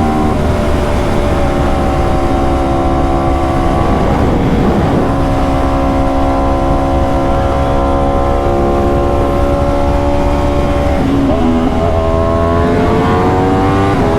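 Aprilia RSV4 V4 engine riding along at fairly steady revs. The note breaks briefly about four seconds in and again about eleven seconds in as gears change, then climbs in pitch near the end as it accelerates.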